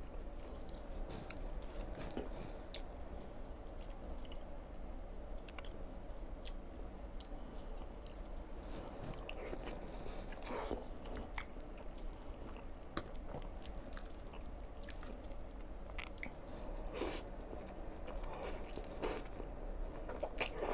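Close-miked chewing of black bean noodles and fried egg: a steady run of wet, smacking mouth clicks, with a few louder bursts about halfway through and again near the end.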